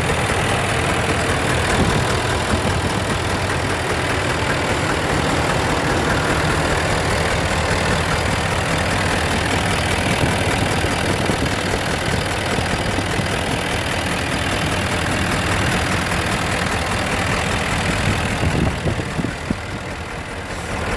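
Ford 6.7 L Power Stroke V8 turbodiesel idling steadily. Its cylinder 5 is out of balance, which the owner traced to a cracked intake valve.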